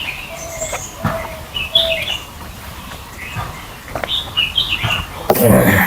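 Close-up eating sounds of pork ribs with rice: wet chewing, lip-smacking and mouth clicks, with short high squeaky chirps. A louder, denser burst of chewing comes near the end.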